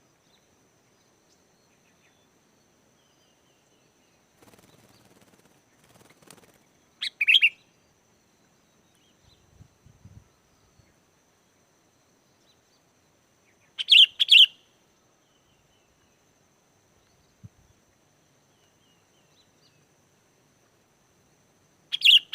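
Sooty-headed bulbul calling: three short, loud bursts of song about seven seconds apart, each a quick double phrase, with faint chirps in between.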